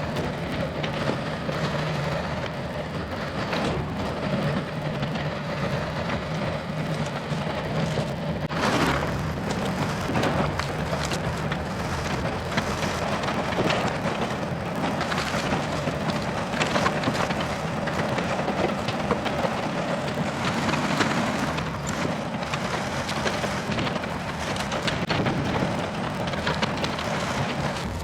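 Compact excavator's engine running steadily under load while it pulls out trees, with wood cracking and splintering and branches snapping throughout.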